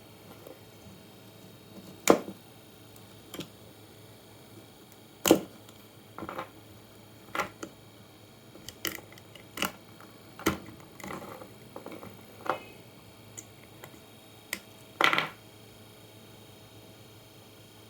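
Irregular sharp clicks and knocks of tools and computer power-supply parts being handled during a teardown, about a dozen over the stretch. Three are louder than the rest: about two seconds in, about five seconds in, and a short rattling one near the end.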